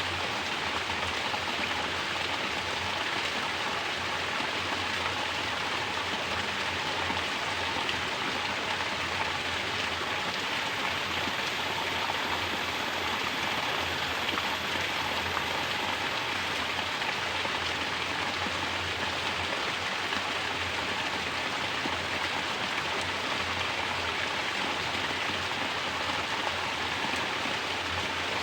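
Mountain water pouring steadily from a natural shower, an even, unbroken splashing rush.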